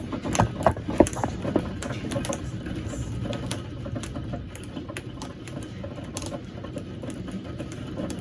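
Rain pattering during a thunderstorm, with many irregular sharp ticks of drops, perhaps hailstones, striking a hard surface close by; the ticks are strongest in the first second or so.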